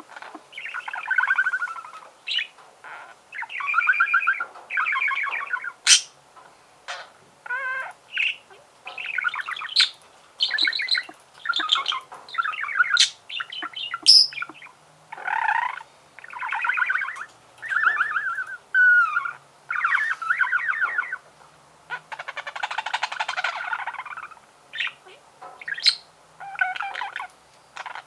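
Budgerigar (pet budgie) singing: a continuous chattering warble of short raspy phrases with brief gaps between them, broken by sharp clicks and a few whistled chirps, with a longer raspy chatter about three quarters of the way through.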